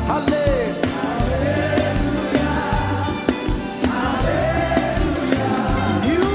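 Live gospel worship music: a band with bass and drums playing while voices sing.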